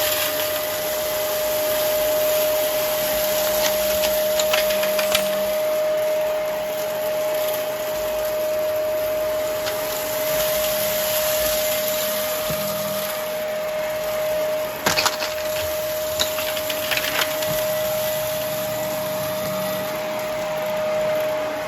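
Vacuum cleaner running with a steady whine and a rushing airflow, with scattered clicks and crackles of debris being sucked up, most of them about two-thirds of the way through.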